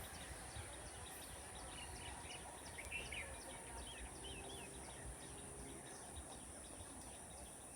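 Faint outdoor background noise with a steady high hiss and a few quick bird chirps about three to four seconds in.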